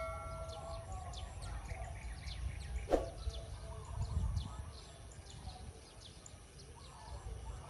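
Small birds chirping now and then over a low, steady background rumble, with one short, louder sound about three seconds in.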